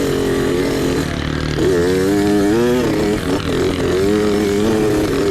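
Mini bike engine running under throttle, its pitch rising and falling several times as the throttle is opened and eased off.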